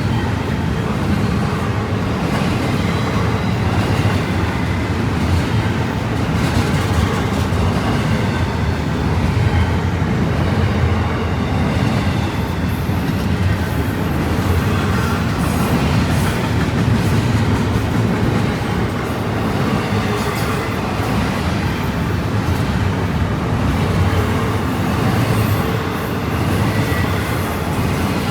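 Freight cars of a Union Pacific intermodal stack train rolling past, with a steady deep rumble of steel wheels on rail and faint scattered clicks and squeals.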